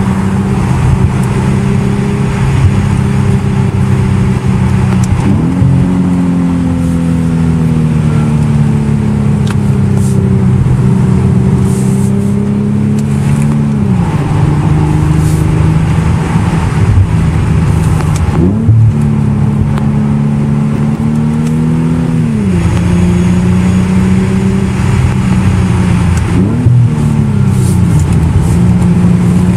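Infiniti G37S convertible's 3.7-litre V6 heard from inside the cabin while driving, its pitch rising and falling several times with quick jumps and drops in revs as the throttle and gears change through the bends.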